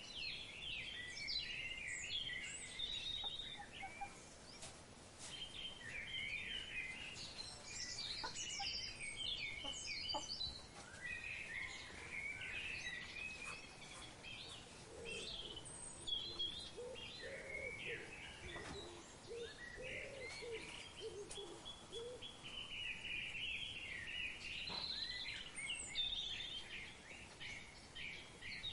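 Many birds chirping and calling over one another in a continuous chorus of high chirps. Lower-pitched calls join in between about fifteen and twenty seconds in.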